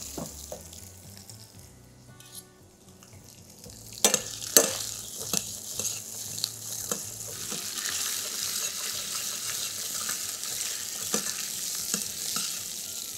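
Pieces of gurnard backbone frying in olive oil with chopped shallot in a stainless-steel pan, browning for the sauce base while a spoon stirs them. The sizzle is faint at first. Two spoon knocks on the pan come about four seconds in, then a steady louder sizzle continues with small clinks and scrapes of the stirring.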